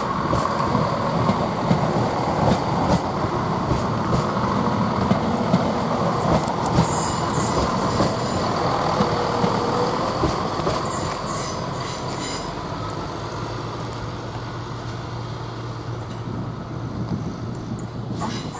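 Class 170 Turbostar diesel multiple unit running into the platform, its wheels clattering over the rails, with two brief high-pitched squeals around the middle. In the second half it settles to a steady low hum as it slows.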